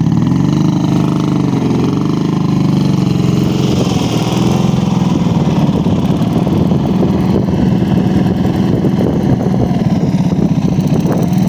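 Dnepr motorcycle's flat-twin boxer engine running, revving up and down through the first few seconds, then holding at a steadier speed.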